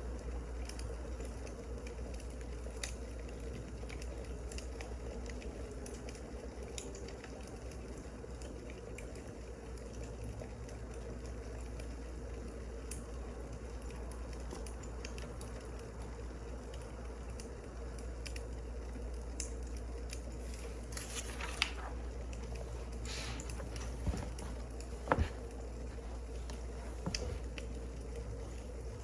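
Wood fire crackling, with scattered small pops over a steady low hum. A few louder clicks and rustles come about 21 to 25 seconds in.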